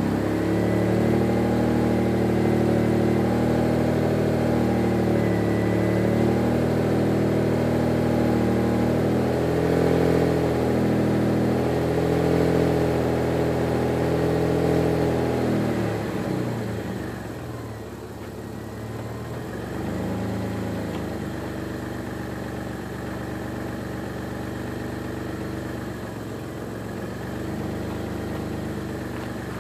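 Mitsubishi 3000GT Spyder VR4's twin-turbo V6 idling steadily while the power retractable hardtop mechanism runs, the roof cycling for about the first sixteen seconds. The sound then drops, leaving the engine idling more quietly.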